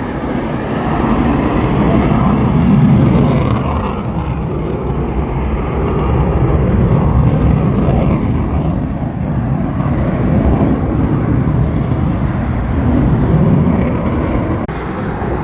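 Airplane engines droning overhead, a loud low rumble that swells and eases several times as the planes pass.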